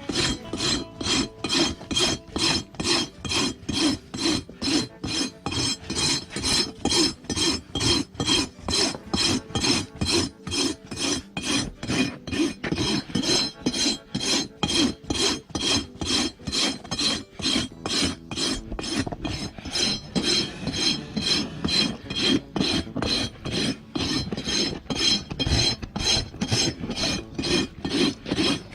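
Hoof rasp filing down an overgrown donkey hoof in steady, rhythmic strokes, about three a second.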